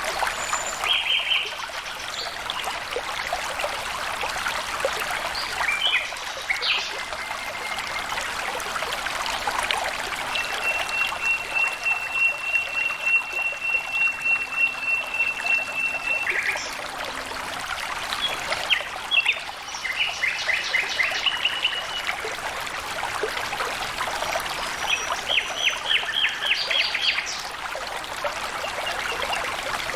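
Water trickling and flowing steadily, with birds chirping. A long high even note runs through the middle, and bursts of rapid trilled notes come in the second half.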